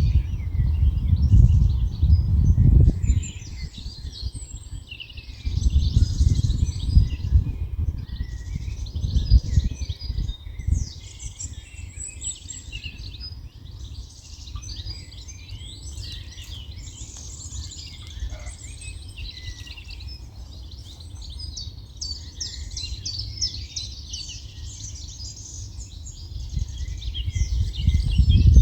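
Several songbirds singing at once in a dense, overlapping chorus of chirps and trills. Gusts of wind rumble on the microphone, strongest in the first three seconds, around six and ten seconds in, and again at the end.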